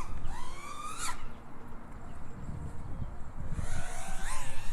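FPV racing quad's brushless motors (XHover 2207 1824kv on 6S) spinning T-Motor Black Bird 4943 props: a whine that rises in pitch over the first second, falls away, then rises and falls again near the end as the throttle is worked. A low rumble of wind on the microphone runs under it.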